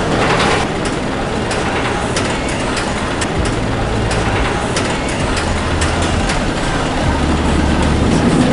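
Steady noise of a train standing at the station platform, with scattered sharp clicks and a low rumble that comes and goes in the second half.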